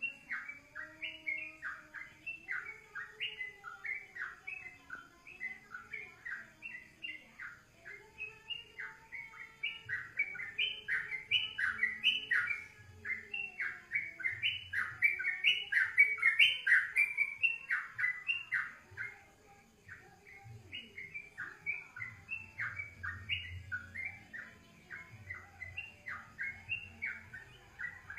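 A songbird singing a fast, unbroken string of short, sharp chirping notes, several a second, growing loudest around the middle.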